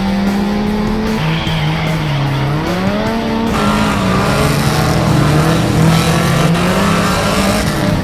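Dodge Viper GTS 8.0-litre V10 running through M&M headers and 4-inch side pipes with no catalytic converters and burnt-out mufflers, a loud, raw exhaust.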